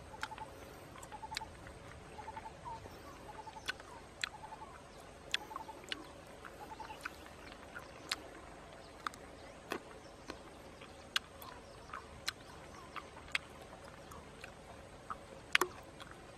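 Crisp clicks and crunches from chewing and biting a tarantula, coming irregularly about once a second, the sharpest near the end. In the first half, short repeated chirps from a bird.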